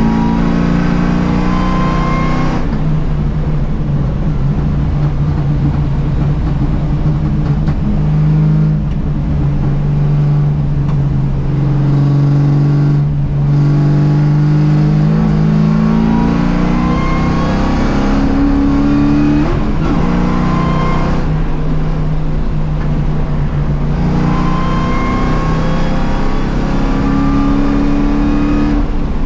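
Ford Mustang race car's engine under hard acceleration, heard from inside the cabin. The engine note climbs in pitch and drops back several times as it works through the gears, over steady road and wind noise.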